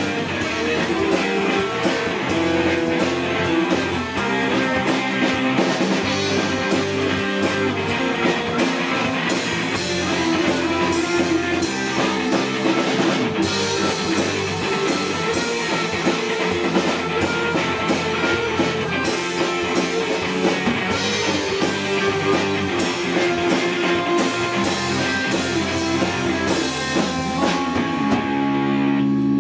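Live rock band playing: electric guitar over a drum kit with cymbals. Near the end the drums stop and the guitar carries on alone.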